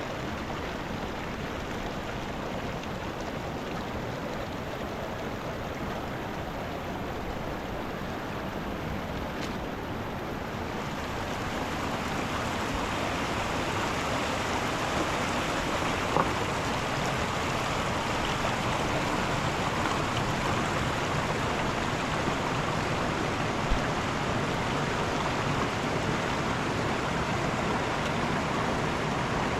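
Mountain river flowing, a steady rush of water that grows louder about ten seconds in, with two brief faint clicks later on.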